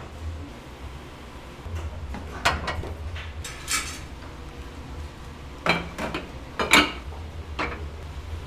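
Dishes and utensils clattering: a handful of separate sharp clinks and knocks of crockery and metal, the loudest about two-thirds of the way through, over a steady low hum.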